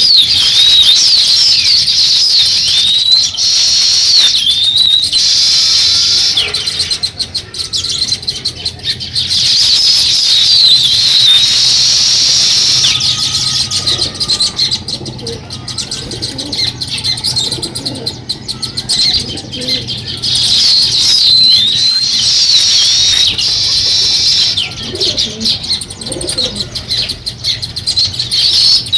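A flock of small birds chirping and chattering, many high, quick calls overlapping. It thins to scattered chirps in the middle and gets busy again near the end.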